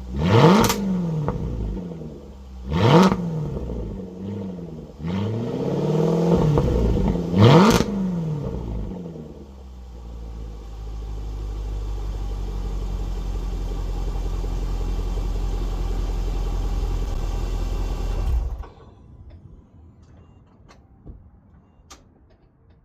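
Range Rover L405's supercharged V8 revved through a valved exhaust with the resonator deleted: three sharp throttle blips, each rising and dropping back. It then settles into a steady low idle and cuts off suddenly near the end, leaving only a few faint ticks.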